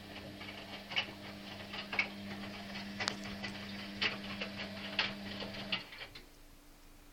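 Washing machine running with a steady motor hum and a sharp click about once a second; the hum stops near the end.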